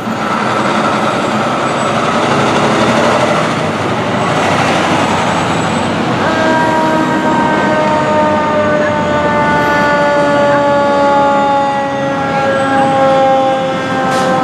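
Fire apparatus responding: heavy diesel engine and road noise, then from about six seconds a mechanical siren's wail that slowly winds down in pitch.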